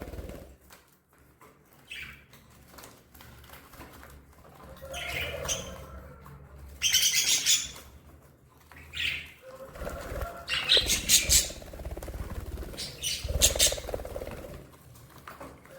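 Budgerigars chirping and chattering in irregular bursts, with wingbeats as birds fly about. The loudest bursts come about seven seconds in and again between ten and fourteen seconds.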